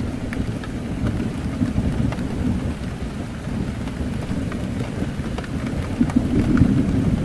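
Heavy rain beating on a window pane, a dense steady deep rush with scattered sharper drop ticks, swelling slightly about six seconds in.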